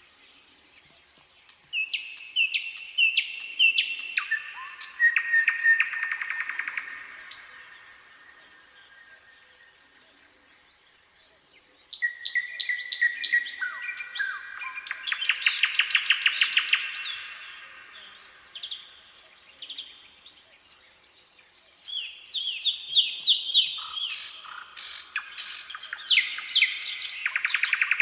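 Nightingale singing: three song phrases a few seconds apart, each a run of varied whistled notes building into fast, rapidly repeated notes.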